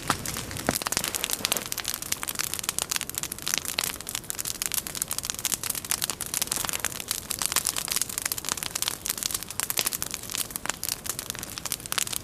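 Log campfire crackling continuously with many small irregular pops.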